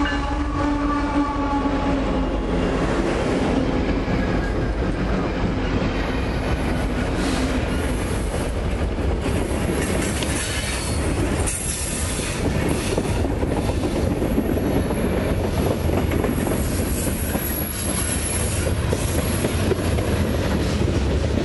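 Freight train led by a Kansas City Southern GE Evolution-series diesel locomotive passing close by: the tail of its Nathan K5HLL horn fades out over the first couple of seconds, then the locomotives' diesel engines and the rolling freight cars take over, steel wheels clattering and squealing on the rails.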